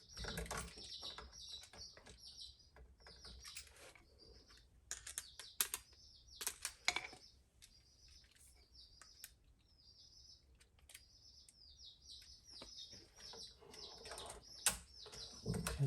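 Small birds chirping again and again, high and fairly faint, with scattered sharp clicks and knocks as stiff electrical wires are worked into an outlet box.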